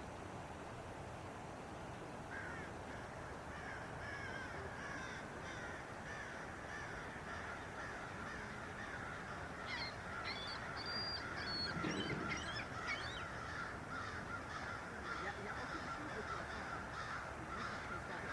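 Many birds calling and chattering at once over a steady hiss. The calls build up a couple of seconds in and are densest around the middle.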